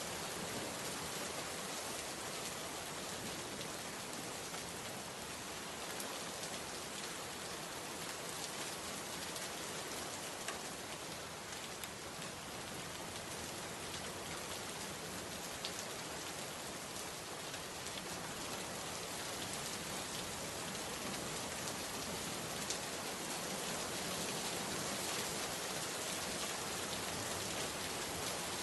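Steady rainfall, an even hiss of many drops landing on a surface, with a few sharper drop ticks here and there.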